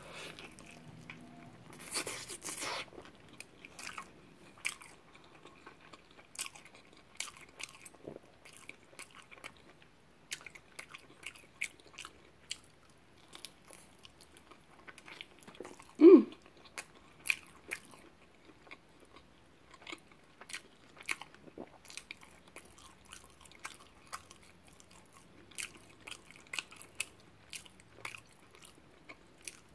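Close-miked biting and chewing of a large burrito: soft, wet mouth clicks and chewing sounds throughout. There is a louder noisy burst about two seconds in and one brief, loud throat sound about halfway through.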